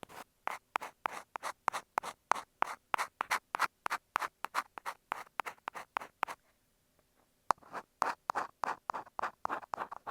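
Ear pick scratching and scraping on an earphone microphone in quick, even strokes, about three a second. The strokes pause about six and a half seconds in and resume a second later.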